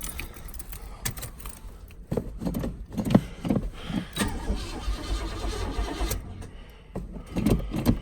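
Keys jangling and irregular knocks and clatter as the driver settles into a 1990 Buick LeSabre Estate wagon for a cold start, then the starter begins cranking the engine near the end.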